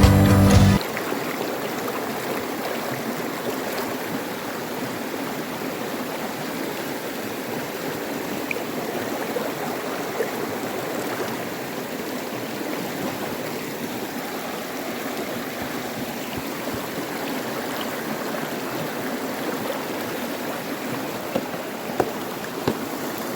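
A stream running steadily, with a few faint clicks near the end.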